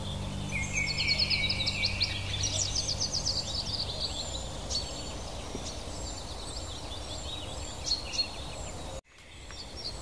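Songbirds singing in a forest, with rapid high trills in the first few seconds and scattered calls after, over a steady background hiss. A low, soft held music tone fades out about two seconds in. The sound cuts out abruptly about nine seconds in, then fades back in.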